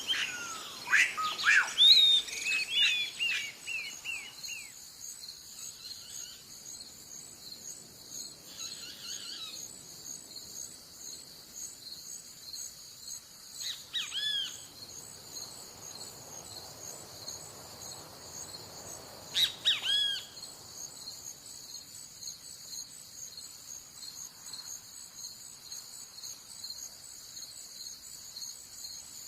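Birds calling over a steady, high-pitched insect chorus: a quick flurry of short falling whistles in the first few seconds, then a single hooked call about halfway through and another about two-thirds through.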